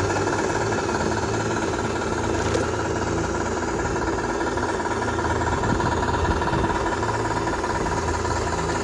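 Steady engine sound at an even, idling-like pace, accompanying a scale RC Land Rover Defender crawler on a trail.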